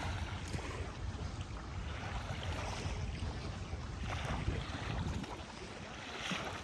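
Wind rumbling on the microphone over a steady wash of river water at the shore, swelling briefly a few times.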